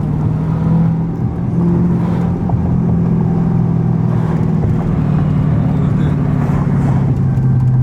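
Dodge Scat Pack's 392 Hemi V8 running at a steady engine speed while driving, its exhaust a loud, even low drone.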